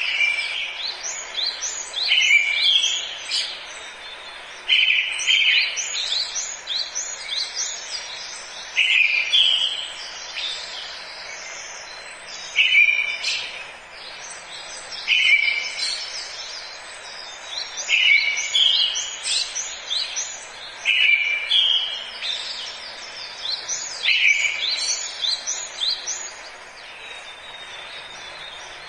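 Forest birdsong: one bird repeats a short, loud phrase every few seconds while other birds chirp higher and fainter, over a steady hiss of forest background.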